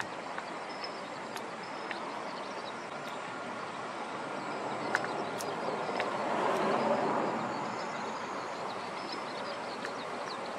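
Tobu 8000 series electric train running slowly on the track: a steady rumble that swells about six to seven seconds in, with a few faint clicks.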